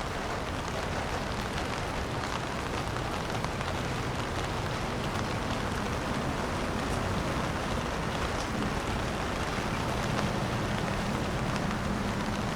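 Steady rain falling on a city street, with traffic sound underneath; a low hum grows stronger in the second half.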